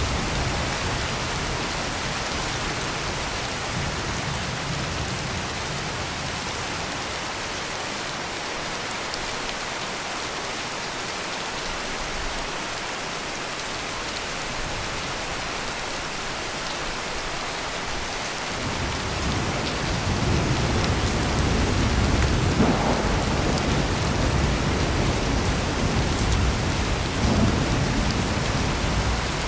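Heavy rain pouring steadily. About two-thirds of the way in, a low rumble of thunder rolls in and keeps rolling until near the end.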